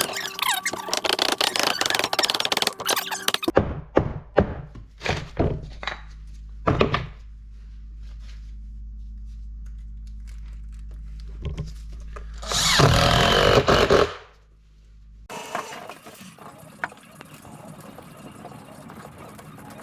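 Workshop work sounds from a canoe build: a few seconds of dense clattering and knocks, then a steady low hum with scattered knocks, a loud power-tool burst of about a second and a half around thirteen seconds in, and a rough rubbing on wood near the end.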